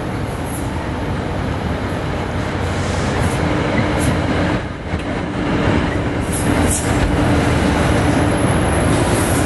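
NJ Transit diesel commuter train with PL42AC locomotive 4029 approaching and passing close by, growing louder as it arrives. Its wheels click sharply over rail joints, and a steady hum comes in about three and a half seconds in.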